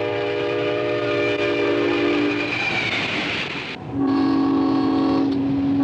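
Diesel locomotive air horn sounding a chord in two long blasts over the low rumble of the train, with a short break about four seconds in.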